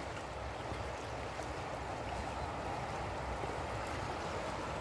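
Steady rushing of flowing water, with a low uneven rumble underneath.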